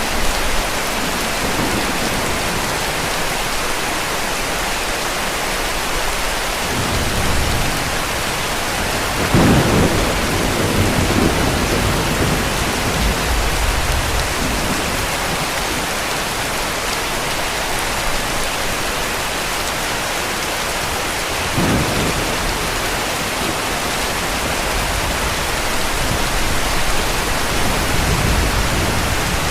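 Steady heavy rain falling, with rolls of distant thunder rumbling through it, the loudest about a third of the way in and shorter ones later.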